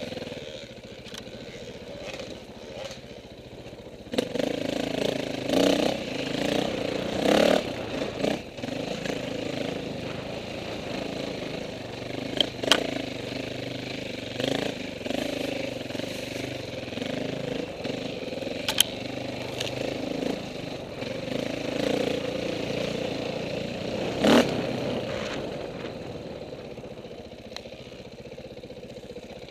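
Off-road motorcycle engine running, getting louder about four seconds in and then rising and falling with the throttle. Several sharp knocks and clatters sound over it.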